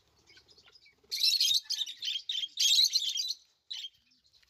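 Small aviary birds chirping in several quick bursts of rapid, high-pitched calls, starting about a second in.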